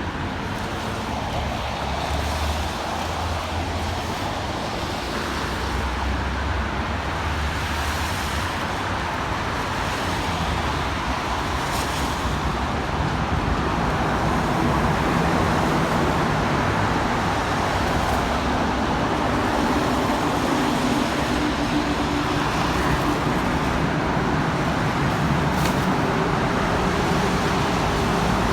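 Road traffic: a steady wash of vehicle noise, with a motor vehicle's engine hum coming in during the second half and growing slowly louder.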